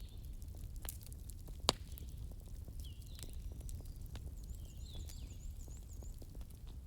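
Wood fire crackling with frequent sharp pops, one louder pop about two seconds in, over a low steady rumble. A few short high chirps come in the middle.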